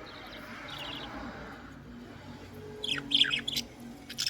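Birds chirping and squawking: a few faint chirps, then a louder burst of sharp, quickly falling calls about three seconds in.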